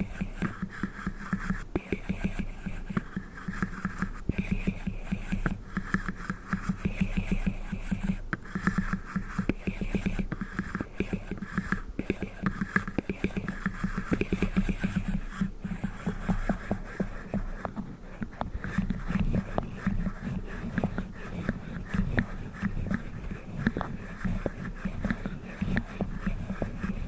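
A black ring box being handled up close, with rapid, irregular tapping and clicking many times a second.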